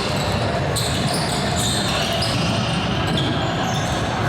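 Basketball game sounds in a gym: a ball bouncing on the court amid steady background chatter and crowd noise in a large hall.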